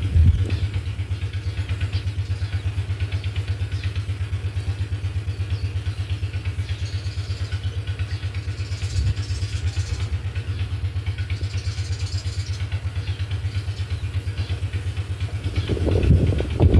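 A low engine running steadily at idle, with a fast even throb of about ten pulses a second.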